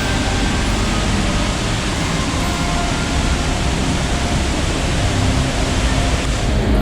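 Steady, loud rushing of water.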